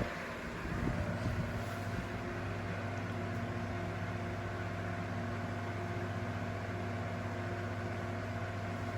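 Four ceiling fans running together on their low setting: a steady electric motor hum with a few held tones over it.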